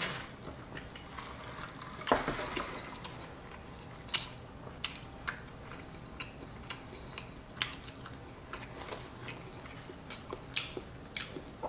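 Close-up eating sounds: a brief sip through a straw at the start, then chewing with scattered small crunches and mouth smacks, and a bite into a crispy fried chicken sandwich near the end.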